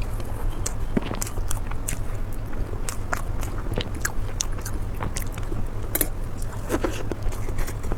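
Close-miked eating: biting and chewing with irregular wet, crackly clicks of the mouth and food, over a low steady hum.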